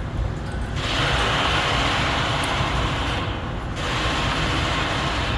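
Welding arc sizzling in two stretches, with a short break of about half a second between them, over a steady electrical hum.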